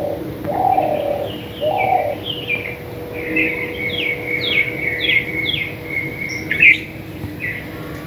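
Birds calling: a few low, cooing notes in the first two seconds, then a run of short notes falling in pitch, about two a second, over a steady high tone. A louder call comes near the end.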